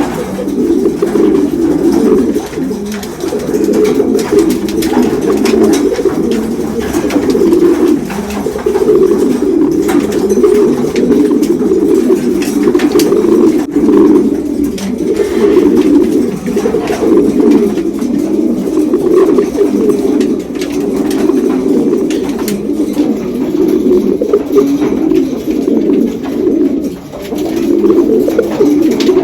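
Many domestic racing pigeons cooing at once: a dense, continuous chorus of overlapping low coos, the courtship cooing of freshly paired birds.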